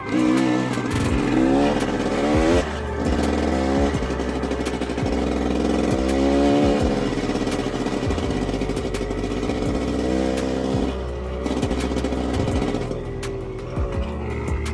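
Dirt bike engine revving hard and changing gear, its pitch climbing again and again and dropping back with each shift, with background music underneath.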